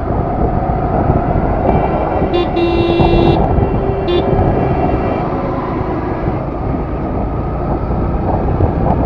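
Steady wind and road noise from a motorcycle on the move. A vehicle horn honks for about a second, about two and a half seconds in, then gives a short second toot about four seconds in.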